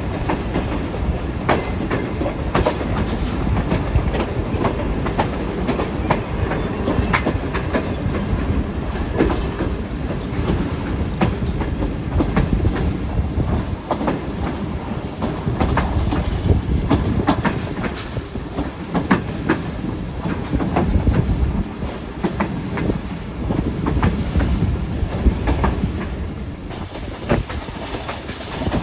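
Passenger train running along the track: a steady low rumble of the carriages with frequent sharp clacks of the wheels over rail joints.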